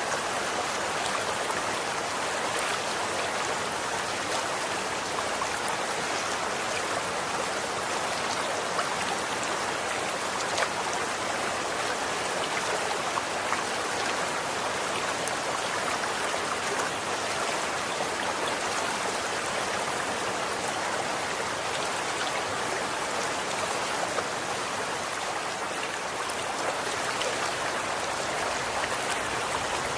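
Running water flowing steadily, a continuous splashing rush with small scattered splashes and drips in it.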